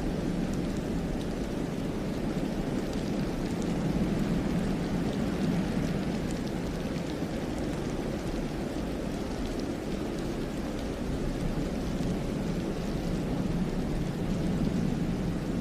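Wind blowing steadily through pine trees in heavy snow, a low rushing rumble that swells and eases slowly, with faint scattered ticks over it.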